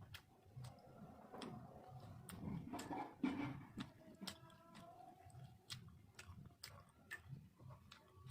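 Faint close-up eating sounds: wet mouth clicks and lip smacks at an uneven pace while chewing food.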